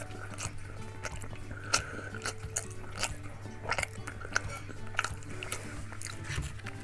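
Close-miked chewing of a mouthful of momos (steamed dumplings), with irregular wet mouth clicks and smacks, over a steady low hum and faint background music.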